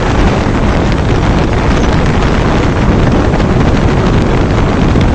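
Loud, steady wind buffeting on the microphone of a moving motorcycle, with the KTM RC 200's single-cylinder engine running underneath.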